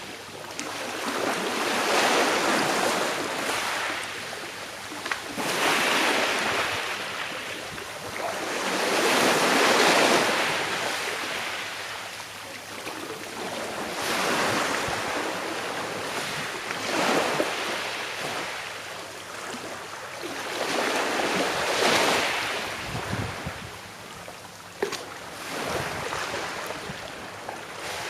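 Small sea waves breaking and washing on a shore, swelling and fading in a slow rhythm, about one wave every four seconds.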